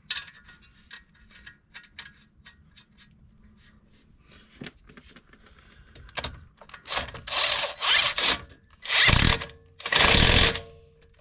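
Light metallic clicks of tools, then a power tool running in short bursts, with two longer runs of about a second each near the end, driving in the bolts of a newly fitted shock absorber and spring assembly.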